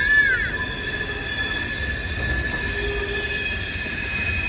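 CSX freight train's wheels squealing as the train slows: several steady high-pitched squeals held at once over a low rolling rumble, with one brief sliding squeal right at the start.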